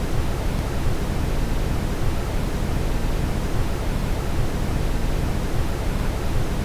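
Steady brown noise: an even, deep rushing hiss, heaviest in the low end, with no change in level.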